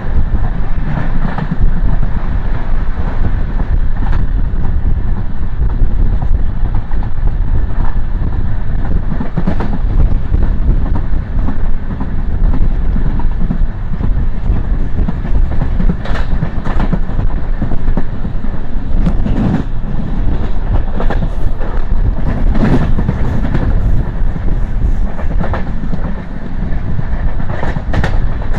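Express passenger train running at speed: a steady rumble of wheels on the rails, with scattered sharp clicks as the wheels cross rail joints.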